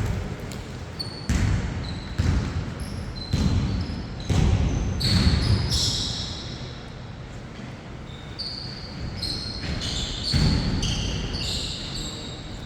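A basketball bouncing on a court floor in irregular thuds, mixed with many short, high sneaker squeaks as players move.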